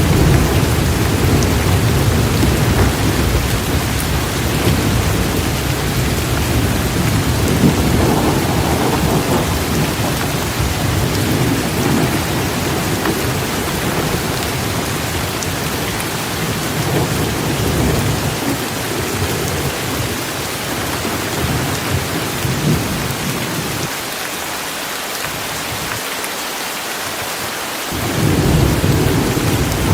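Thunderstorm with heavy, torrential rain hissing steadily while thunder rolls and rumbles low underneath. The rumble dies away about four-fifths of the way through and swells up again near the end.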